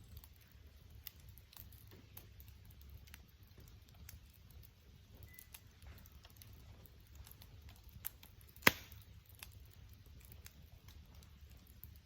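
Wood campfire crackling, with scattered small clicks and one sharp, loud pop about two-thirds of the way through.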